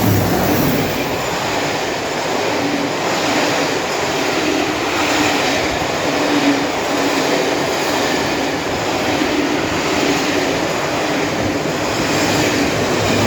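A locomotive-hauled rake of Mark 1 coaches passing through at high speed: a steady, loud rumble and rattle of wheels on the rails.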